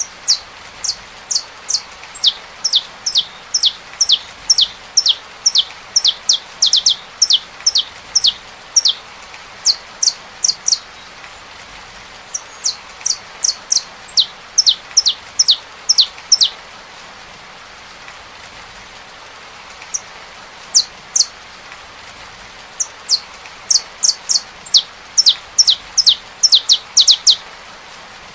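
Saffron finch singing in several bouts of rapid, sharply falling high notes, with short pauses between bouts, over a steady hiss of rain.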